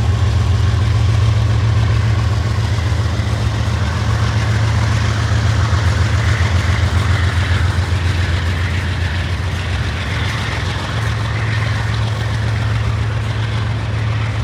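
Diesel locomotive engine running with a steady, deep, loud rumble.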